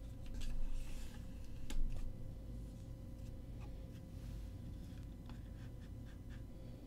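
Handling noises: scattered light clicks and short rustles of paper and plastic, with a louder rustle about half a second in and a sharp click just under two seconds in, over a steady low room hum.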